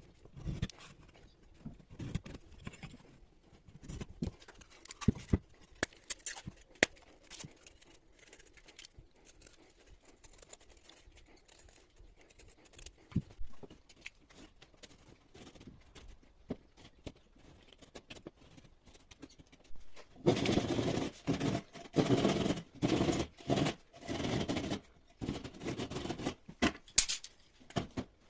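Hand tools working on plasterboard during a drywall repair: scattered light scrapes, taps and clicks, then from about two-thirds of the way in a run of louder repeated rasping strokes.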